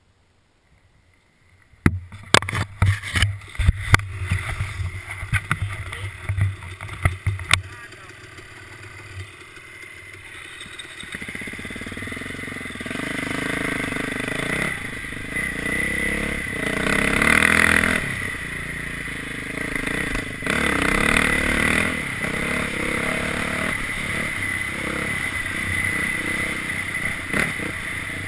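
Near silence, then a series of sharp knocks and clatter, then a dirt bike engine running from about ten seconds in, its pitch rising and falling as it is revved.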